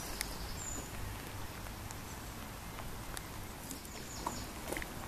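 Outdoor lakeside ambience: a steady low rumble of wind on the microphone, a few short bird chirps, and scattered light clicks.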